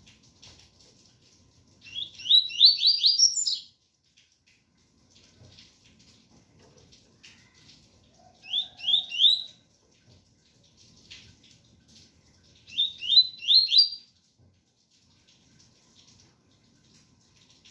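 Double-collared seedeater (coleiro) singing the 'tui-tui' song: three short phrases, each a quick run of four or five rising whistled notes, several seconds apart. Faint rain patters underneath.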